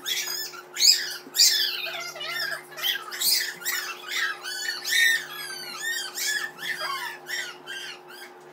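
A bird chattering with rapid, high-pitched chirps and squawks, many of them quick downward sweeps in pitch, over a faint steady background hum.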